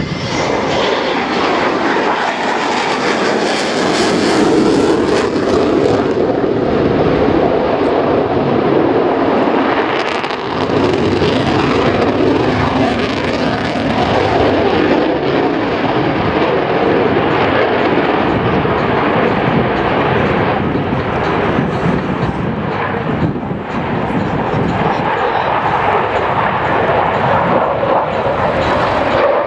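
Panavia Tornado's twin RB199 turbofan jet engines during a low display flight, a loud, dense jet noise that holds heavy throughout, easing briefly about a third of the way in and again past three-quarters.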